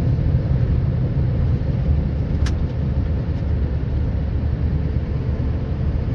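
Steady low rumble of a truck driving, engine and road noise heard inside the cab, with a single sharp click about two and a half seconds in.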